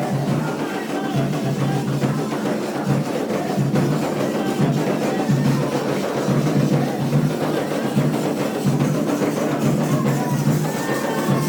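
Candomblé ceremonial drumming: drums and percussion playing a steady rhythm, with faint singing under it.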